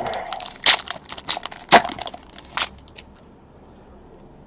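Baseball trading cards being flipped through and handled: a run of sharp clicks and crisp rustles for about three seconds, then quiet.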